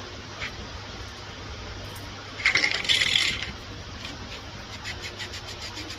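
A burst of metallic clinking and rattling lasting about a second, near the middle, with a few faint ticks before and after.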